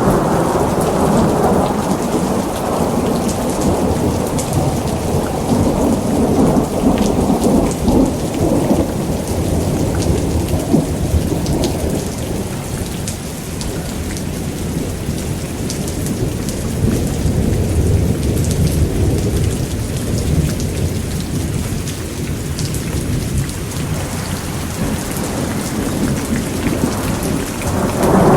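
Thunderstorm: steady heavy rain with scattered drop ticks, under long rolling thunder. The rumble is heaviest for the first several seconds, eases off, swells again about two-thirds of the way through, and comes back strongly right at the end.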